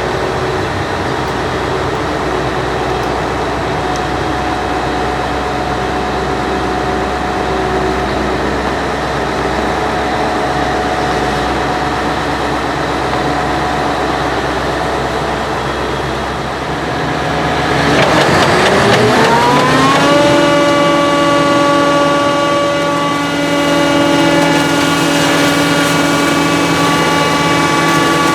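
Heavy diesel engine running at a steady speed. About 18 seconds in it revs up over a couple of seconds, then holds at a higher, steady speed.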